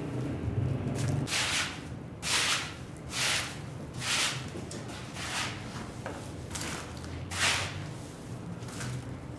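Strokes of a cleaning tool swishing across a dirty rug, about one stroke a second, over a steady low hum.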